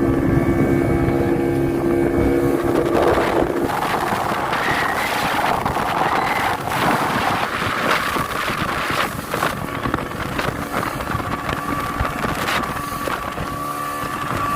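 Motorboat engine running at speed, towing a banana boat. About three seconds in, its steady tone drops under a loud rush of wind and water with scattered knocks, and a fainter engine whine returns near the end.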